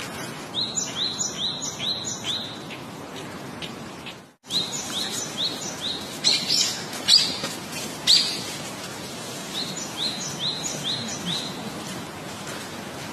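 A small bird chirping in runs of four or five short, high chirps, repeated several times over a steady background hiss. The sound cuts out for a moment about four seconds in.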